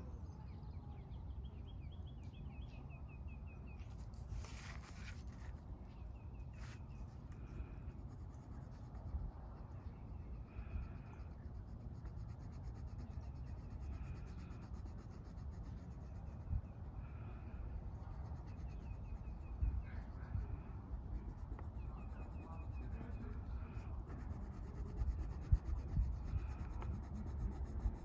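Coloring strokes scratching across paper in short repeated passes, over a low steady outdoor rumble.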